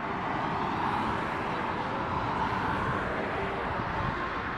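Steady outdoor vehicle and traffic rumble, an even noise with no distinct engine note or sudden events.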